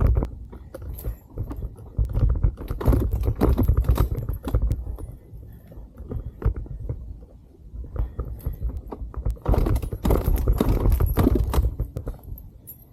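Rattling and knocking from a dirt bike being handled after it was flooded and would not start. The knocking comes in two bursts, one a couple of seconds in and one near the end, over a low rumble.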